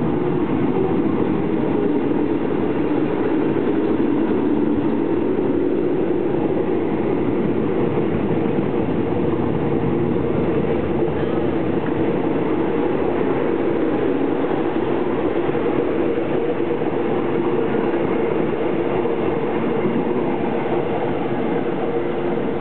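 Electric commuter train running past along the platform: a steady rumble of wheels on rail and running gear.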